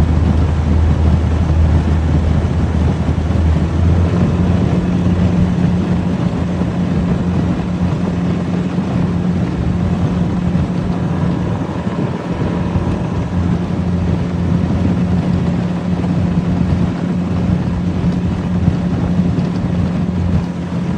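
Boat motor running steadily under way, with wind and water rushing past. Its pitch steps up about four seconds in, as if throttled up, and then holds.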